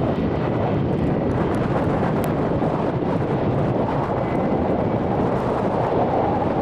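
British Airways Airbus A319 jet engines running, heard through heavy wind buffeting the microphone, with a faint engine whine rising slightly in pitch near the end.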